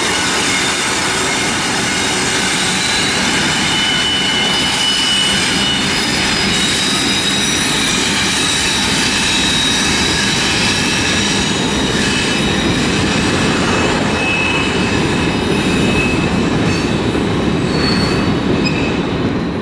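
Freight train passing on a curve: GE ES44AC and D9-44CW diesel locomotives run by, then empty centerbeam flatcars roll past. Steady wheel-and-rail noise throughout, with thin high wheel squeals coming and going from about four seconds in.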